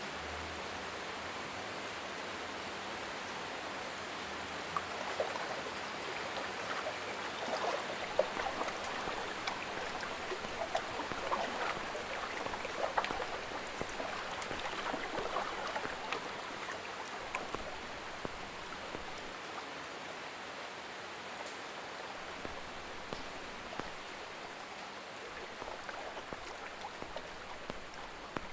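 Water ambience: a steady hiss of falling or running water, with scattered sharp drips that are thickest from about five to seventeen seconds in.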